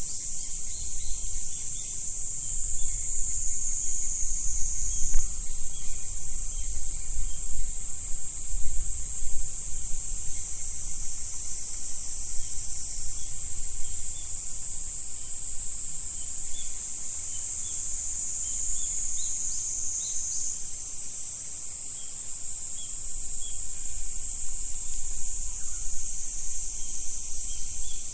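Dense, steady high-pitched insect chorus, with faint scattered bird chirps and a low background rumble. The chorus shifts slightly in pitch about five seconds in and again about twenty seconds in.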